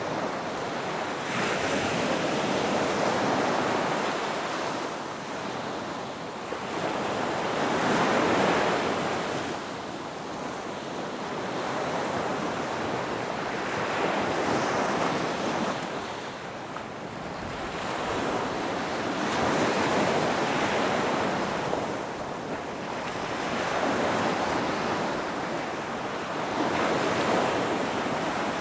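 Ocean surf breaking on a beach: a steady wash that swells with each incoming wave and fades as it draws back, about every five or six seconds.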